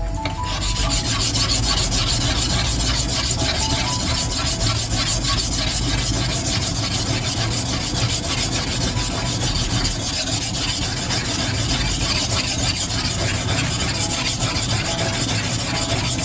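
Sakai deba knife blade being stroked back and forth on a whetstone: a steady run of rapid, even scraping strokes.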